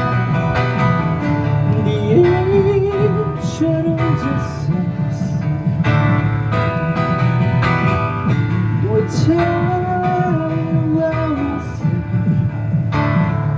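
Live band playing an instrumental passage: strummed acoustic guitar over bass, keyboard and cajon, with a steady beat of percussive hits. A gliding melody line comes in over the chords twice.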